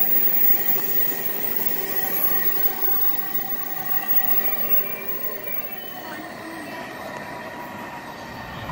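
Freight train of empty double-stack container well cars rolling past, the steel wheels squealing in several steady high tones over the rumble of the cars. It grows a little fainter after about three seconds as the last cars pass and move away.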